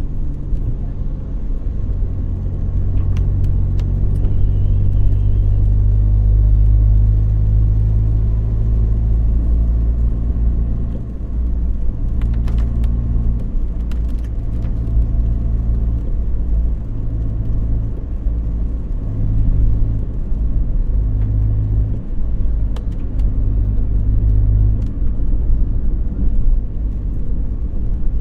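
A car being driven: a steady low engine and road rumble that swells and eases with the throttle, with a few faint clicks.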